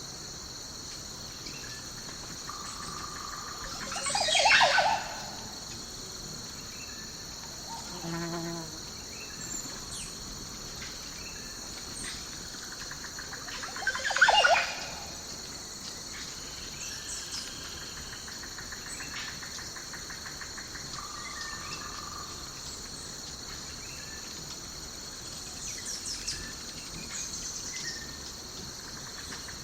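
Daytime nature ambience: a steady high-pitched insect drone of crickets or cicadas, with scattered bird chirps and calls. Two louder, brief calls come about four and fourteen seconds in.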